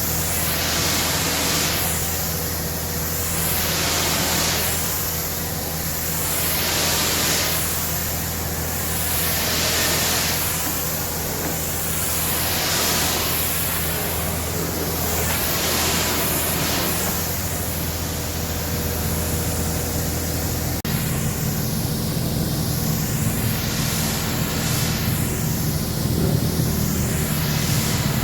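High-pressure water spray from a pressure washer hissing steadily, its sound swelling and fading every few seconds as the jet is swept back and forth, over a steady low machine hum that shifts in pitch about three-quarters of the way through.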